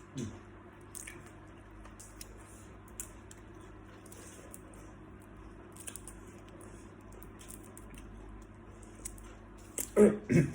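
Close-miked eating sounds from salt-baked shrimp: scattered soft crackles, squishes and clicks, with two louder short sounds near the end.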